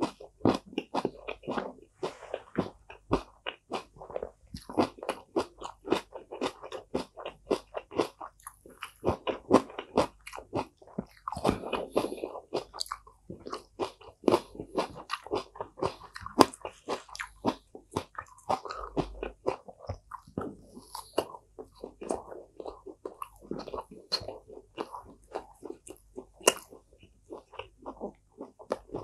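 Close-miked chewing of crunchy food, crispy pork with lettuce and cucumber: wet, crisp crunches coming several times a second without a break.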